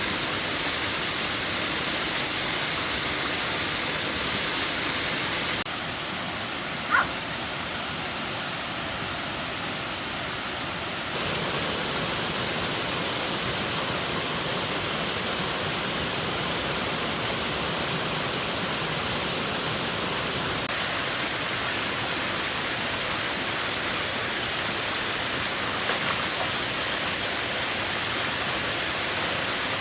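Steady rushing of running water, an even hiss. It drops in level abruptly about five seconds in and comes back about five seconds later, with one short high chirp about seven seconds in.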